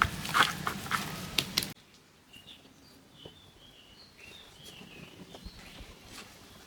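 Loud clatter of sharp clicks and knocks for under two seconds, cut off abruptly, then quiet outdoor background with small birds chirping in short high calls.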